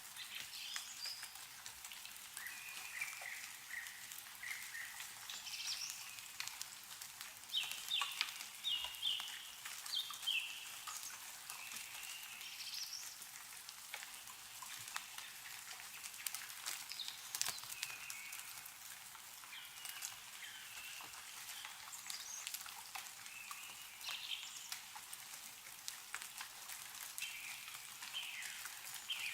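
Meltwater dripping and pattering from snow-covered trees, a steady scatter of small drops, with small birds chirping and calling on and off throughout; the loudest run of chirps comes about eight seconds in.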